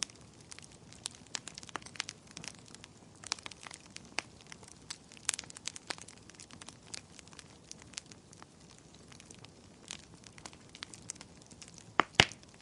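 Wood fire crackling: a steady scatter of small sharp snaps, with two loud pops in quick succession near the end.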